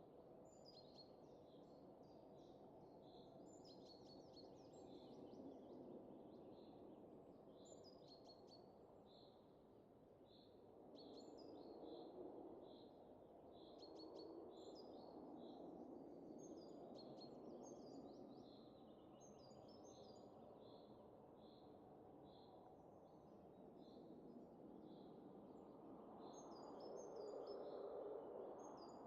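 Faint wind that swells and eases, strongest near the end, with small birds chirping over it again and again.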